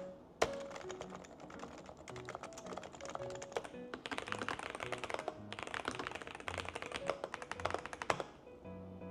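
Typing on a computer keyboard: fast runs of key clicks, densest and loudest in the second half, over background music.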